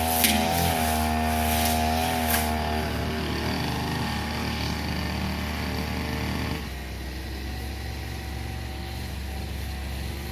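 Two-stroke brush cutter engine running at high revs, its pitch wavering under load, with a couple of sharp ticks early on. About six and a half seconds in it suddenly drops to a quieter, lower running as the throttle is eased off.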